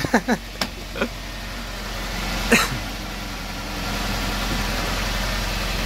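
Fuel-injected Tofaş Doğan engine idling steadily, freshly started after standing about two and a half months. A sharp click about two and a half seconds in.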